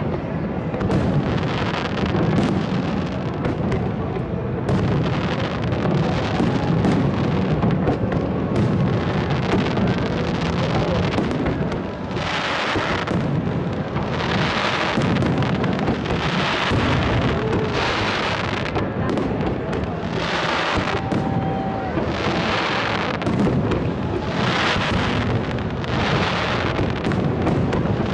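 Fireworks display: a dense, continuous barrage of bangs and booming reports with an echoing rumble. In the second half a regular run of bright crackling bursts comes about once a second.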